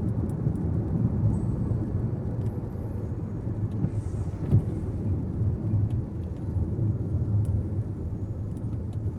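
Car driving on the road, heard from inside the cabin: a steady low rumble of tyre and engine noise, with one brief thump about four and a half seconds in.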